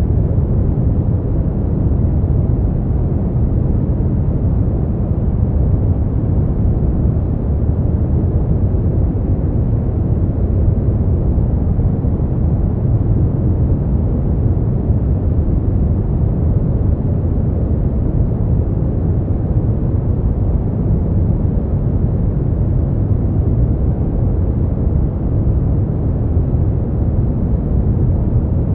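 Brown noise: a steady, deep rumbling hiss that stays even throughout.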